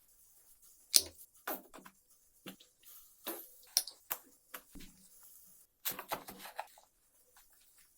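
Irregular clicks, taps and light knocks of food and utensils being handled during sandwich preparation, the loudest knock about a second in.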